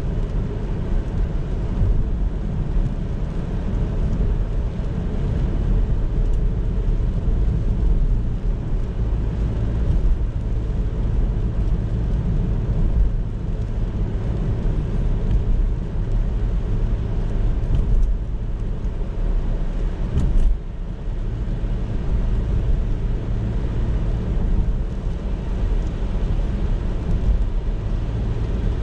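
Car driving on city roads: steady low engine and tyre rumble. A brief louder moment comes about twenty seconds in, followed by a short dip.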